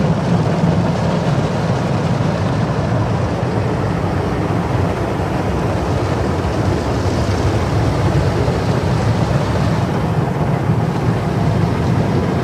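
Automatic car wash machine's rotating brushes scrubbing the car body with water spray, a loud steady rushing and churning heard from inside the car's cabin.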